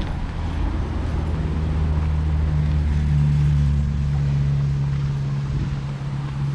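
Motor vehicle engine giving a steady low hum that grows louder toward about three seconds in, then eases off.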